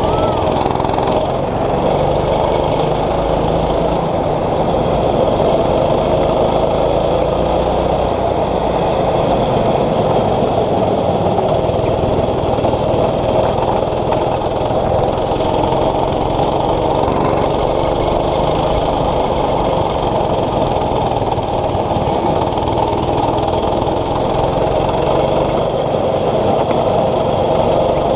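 6.5 hp single-cylinder four-stroke kart engine running steadily, its pitch rising and falling slightly.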